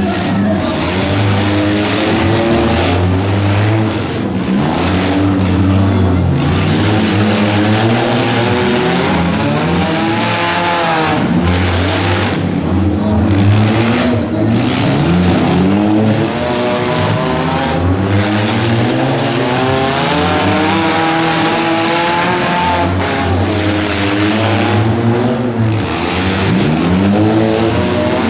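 Several demolition derby cars racing, their engines revving up and easing off over and over. The overlapping engine pitches climb and fall as the cars accelerate and slow.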